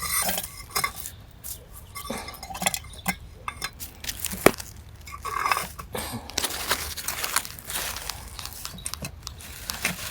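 Handling flowers at a grave: scattered clinks and knocks against a flower pot or vase, with crinkling and rustling of stems and wrapping. The sharpest clink comes about four and a half seconds in.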